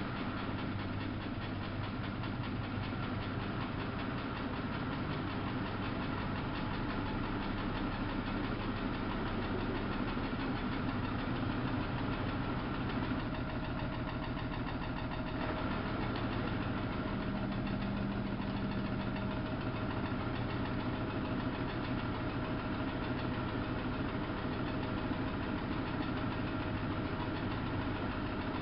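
Samsung WF71284 front-loading washing machine running, a steady mechanical hum with low tones, joined about halfway through by a faint higher steady tone.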